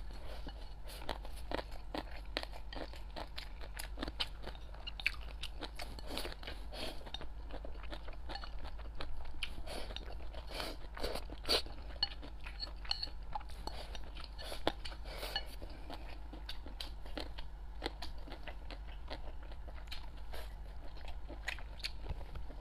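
Close-miked eating: chewing and crunching mouthfuls of rice with a shredded red topping, with many small irregular clicks and crackles and chopsticks clicking against the ceramic bowl.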